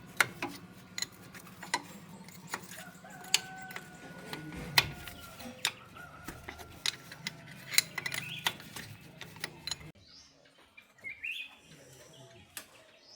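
Irregular sharp metallic clinks and knocks of hand tools on metal parts, over a low steady hum that stops about ten seconds in; a few faint chirping calls follow.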